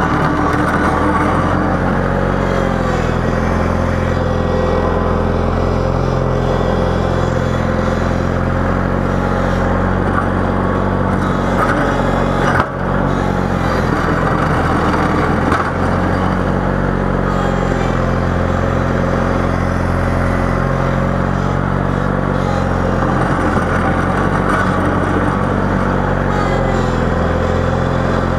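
Engine of a snowplowing vehicle running steadily under load while pushing snow, with a brief dip in sound about halfway through.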